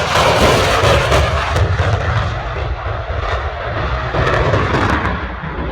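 Low-flying military aircraft passing close, a loud rough engine roar with crackle that eases a little near the end.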